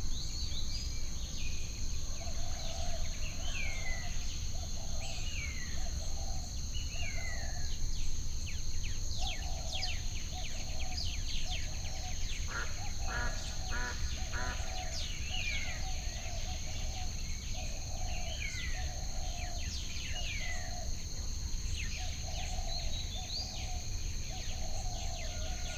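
Added nature ambience: a steady high insect drone, with many short falling bird chirps, a low call repeated about once a second, and a low rumble underneath.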